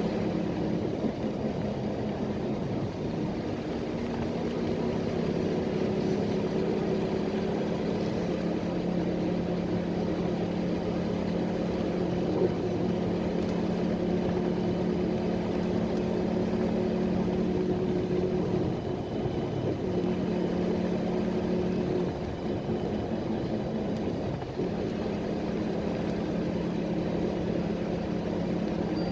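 PAZ-320405-04 Vector Next bus under way, its engine running steadily over road noise. The engine note drops for a few seconds about two-thirds through, then picks up again.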